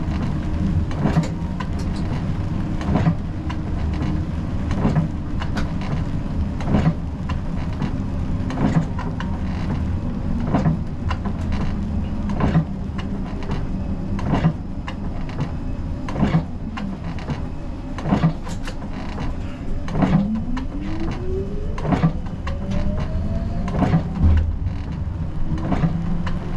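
Siemens Combino tram heard from the driver's cab: a steady low rumble with a sharp click about every two seconds. About 20 seconds in, a rising whine sets in as the tram's traction motors accelerate.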